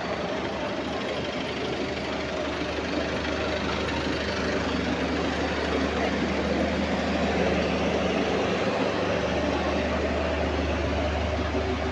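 Double-deck bus driving, heard from inside the passenger saloon: a steady low engine and drivetrain drone under a rumbling road noise, the low drone growing louder about nine seconds in. The bus makes an odd noise as it moves that gives the rider concern.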